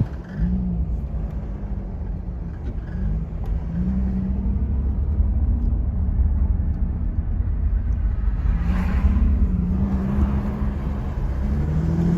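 Jaguar F-Type on the move: a steady low rumble with a tone that wavers up and down, and a few brief, fainter higher squeaks, the squeaking noise whose cause the owner is asking about.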